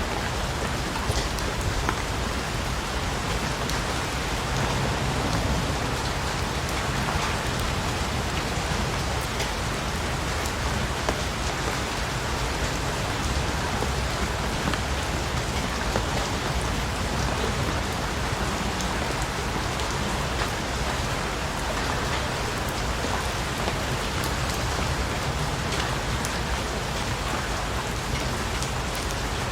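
Steady rain falling on a surface, an even hiss scattered with many small drop ticks.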